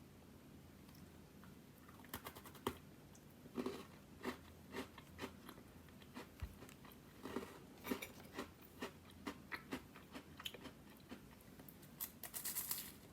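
Crunchy Japanese snack being bitten and chewed: irregular crisp crunches every half second or so, with a denser run of crackling near the end.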